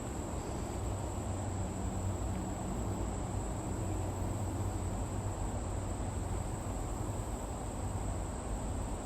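Steady, unbroken high-pitched drone of summer insects in the swamp, over a low rumble.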